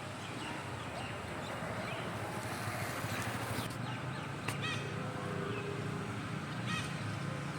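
A few short chirps from a parrot over steady background noise with a low hum.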